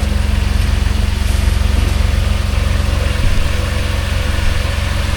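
2005 Jeep Wrangler TJ engine idling steadily on fresh oil with normal oil pressure, with no valvetrain ticking.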